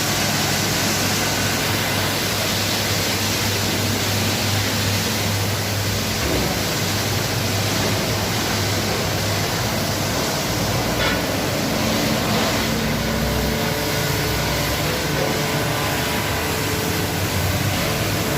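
Automatic car wash running: a steady rush of spraying water over a low machine hum.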